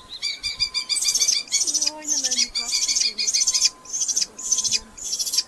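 Red-footed falcons in the nest box giving a run of loud, harsh, high-pitched calls, about two a second.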